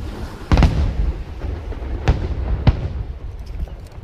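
Aerial fireworks shells bursting: a big boom about half a second in, then two sharper bangs about two and two and a half seconds in, with a low rolling rumble of further bursts and echoes between them.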